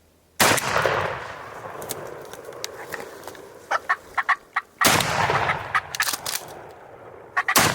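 Merriam's wild turkey gobbling three times, each gobble loud and sudden with a long echoing tail.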